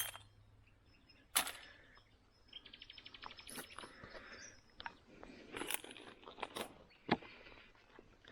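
Scattered sharp clicks and knocks of glass and stones being handled, with a short, rapid ticking trill about three seconds in.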